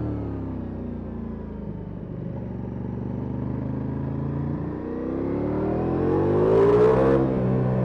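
Ducati Multistrada V4S Rally's V4 engine with an Akrapovic exhaust, heard on board while riding. Revs fall off at first and hold low, then climb steadily for about two seconds and drop sharply near the end as the rider shifts up.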